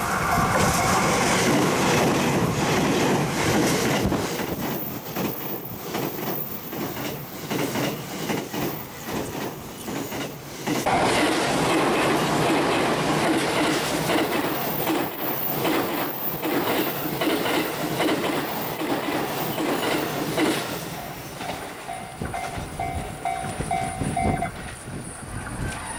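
Series E353 electric limited express train running past, its wheels clattering rhythmically over the rail joints, with wind buffeting the microphone.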